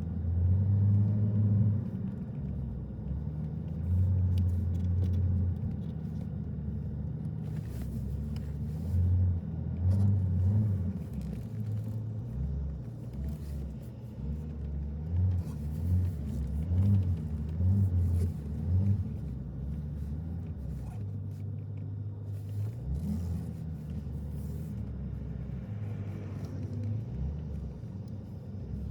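A car driving: a steady low rumble of tyres and engine, swelling in irregular louder low surges as the car goes over the road.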